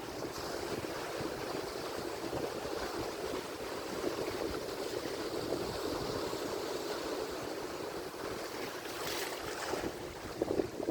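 Atlantic Ocean surf washing continuously, with a brief brighter hiss of breaking water a little before the end.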